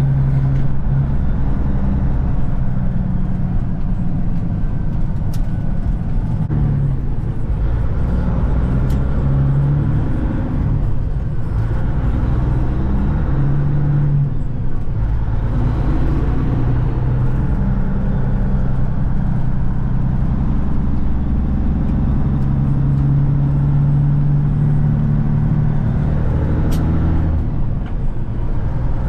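Peterbilt 379 semi truck's diesel engine running on the road, a steady drone whose pitch rises and falls several times as the engine speed changes.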